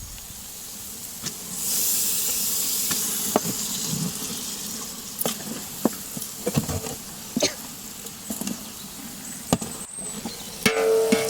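Raw chicken going into a hot pot of oil and masala and sizzling. The hiss swells about two seconds in, then settles, with scattered sharp clinks and knocks through it.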